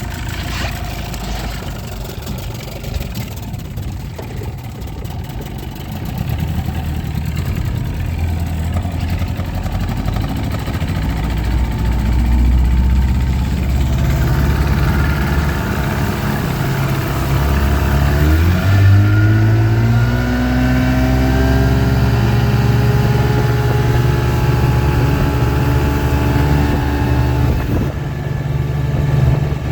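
1984 Johnson 25 hp two-stroke outboard motor running under way. It picks up about six seconds in, then is opened up around eighteen seconds in, its pitch rising steeply before holding steady at high speed, with a brief drop shortly before the end.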